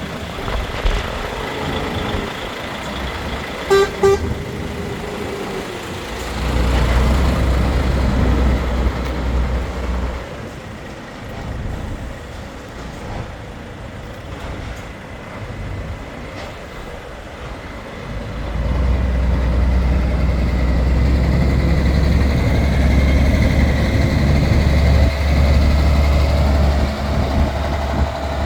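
Scania 124 420 truck's diesel straight-six engine running, louder and heavier for a few seconds from about six seconds in and again from about eighteen seconds on. Two short horn toots sound about four seconds in.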